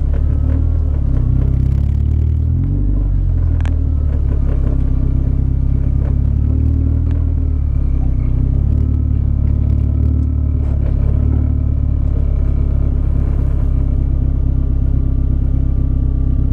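Toyota Corolla 1.8 L 7A-FE inline-four running at low revs through an aftermarket exhaust with headers, a steady deep exhaust drone with a slight change in pitch about two to three seconds in.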